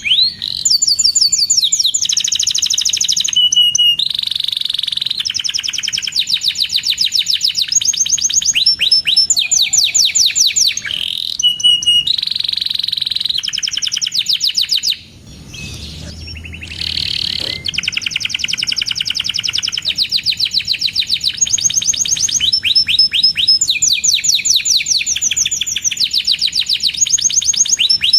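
Domestic canary singing: long, fast trills of repeated high chirping notes, one run after another, with a short break about halfway.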